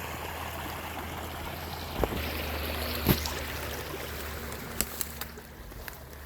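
Rushing river water, a steady noise, with a few sharp knocks over it, the loudest about three seconds in.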